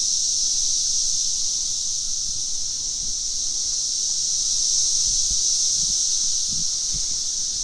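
Chorus of periodical cicadas from the 2024 double-brood emergence: a loud, steady, high-pitched drone that holds unbroken throughout.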